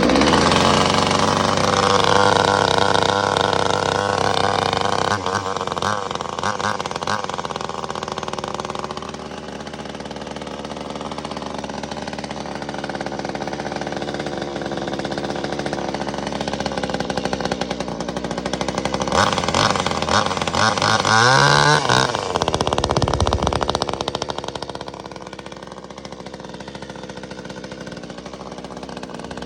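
Small two-stroke engine of a 25cc top-handle chainsaw, fitted with a homemade exhaust pipe, running just after a cold start. It runs fast and loud at first and settles a little lower. About 20 seconds in it revs up, then drops back to a steadier, quieter idle.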